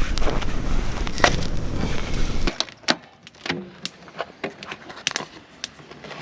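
Wood campfire crackling, with sharp, irregular pops and cracks. For the first couple of seconds heavy wind noise on the microphone runs under it, then stops abruptly, leaving only the separate pops and snaps.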